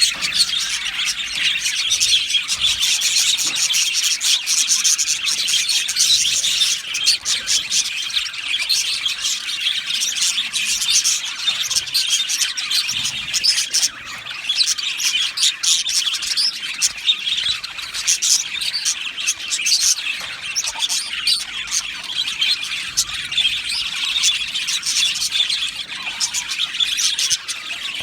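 A colony of budgerigars in an aviary singing and chirping together: a dense, unbroken chatter of many birds with countless short high calls overlapping.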